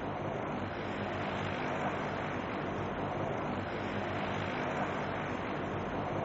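Steady rushing drone of aircraft engines with a faint low hum underneath, holding even throughout.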